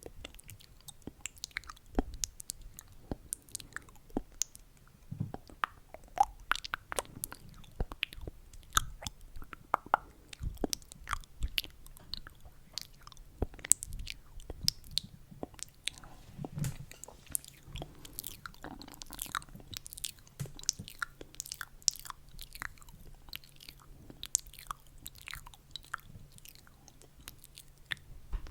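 Close-miked ASMR mouth sounds: a dense, irregular stream of small wet clicks and smacks.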